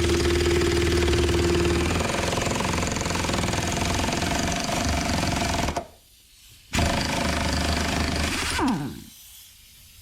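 Impact wrench hammering away at the lock nut on a hydraulic cylinder's rod, in two bursts with a short pause about six seconds in. The motor winds down with a falling whine near the end.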